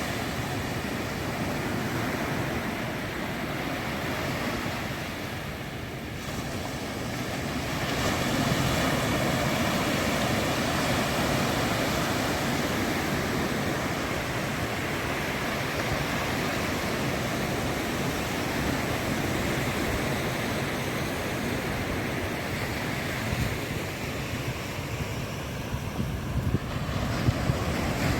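Ocean surf breaking and washing up a sandy beach: a steady rushing that eases around six seconds in and swells again about two seconds later.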